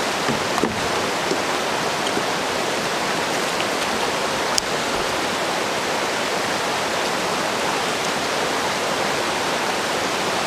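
Steady rush of river water running through a rapid, with one light click about halfway.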